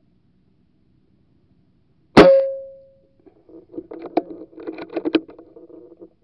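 A single rifle shot about two seconds in: a sharp crack with a short ringing tone that fades over about half a second. About a second later comes irregular rustling with several sharp clicks.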